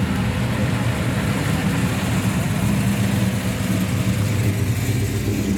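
Ford Fairlane's engine running at low speed as the car rolls slowly past, a steady low note with an uneven pulsing beat.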